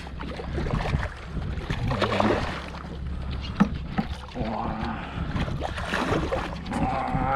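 Water and wind around a small anchored fishing boat: a steady low rumble under an uneven wash, with a few light knocks.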